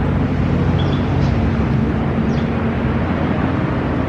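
Car engine running steadily at a low, even speed, loud and close.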